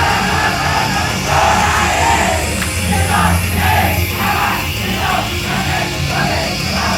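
Loud live idol-rock music over a PA, with yelled vocals repeating about twice a second through the middle.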